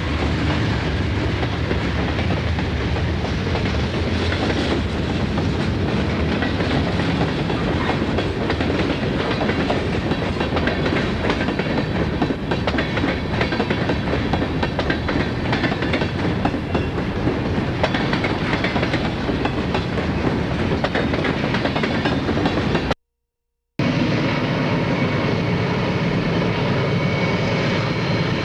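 Freight train cars rolling past close by, a steady rumble with wheels clicking over the rail joints. About 23 seconds in the sound cuts out for a moment, then a steadier engine drone with a low hum takes over, typical of diesel locomotives working.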